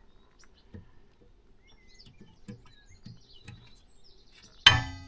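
Light metallic taps and clicks as a new rear brake pad is handled and fitted into the caliper bracket, then one sharp metal clack about four and a half seconds in as the pad goes in.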